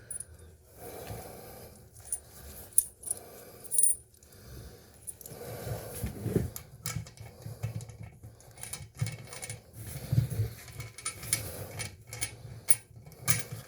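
Metal washers and a bolt clinking and clicking irregularly as they are handled and fitted by hand on a toilet's tank-to-bowl bolt.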